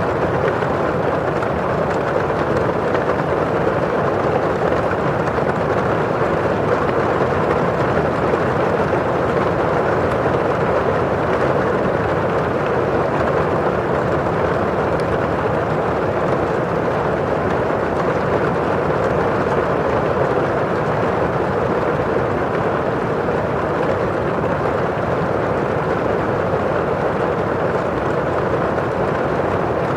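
Steady rain falling on a window pane and outside, an even rushing noise that does not let up.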